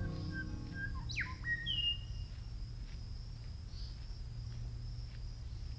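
Wild birds calling: a few short chirps, then a quick whistled sweep up and down about a second in and a falling note just after. These sit over a steady high insect drone and a low outdoor rumble.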